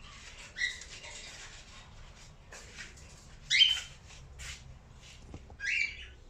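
Cockatiel calling: three short chirps, the middle one the loudest, with fainter scratchy sounds between them.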